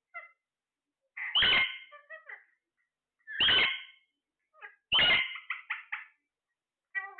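Parrot calling: three loud, harsh calls about a second and a half apart, each followed by a few short chattering notes, with softer notes at the start and near the end.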